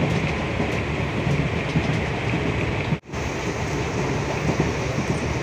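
Steady running noise of a moving passenger train heard from inside the coach: wheels on the rails and the carriage rattling. The noise cuts out for an instant about three seconds in.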